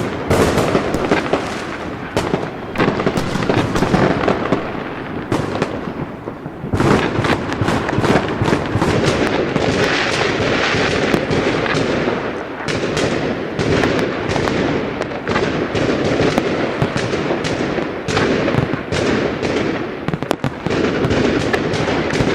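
Fireworks going off in a dense, continuous barrage of bangs and crackling. It eases briefly about six seconds in, then picks up again just as dense.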